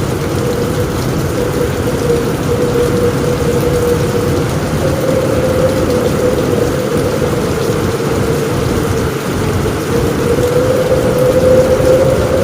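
Steady heavy rain falling on a roof, an even wash of noise with no let-up, with a faint steady hum running underneath.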